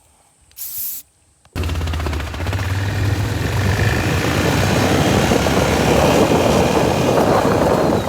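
A short hiss of aerosol insect repellent being sprayed. About a second and a half in, a loud engine comes in abruptly and keeps running steadily with a low hum and a lot of noise over it.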